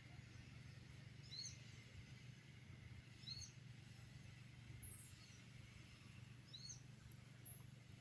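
Faint outdoor quiet with a small bird giving a short chirp a few times, every couple of seconds, over a low steady hum.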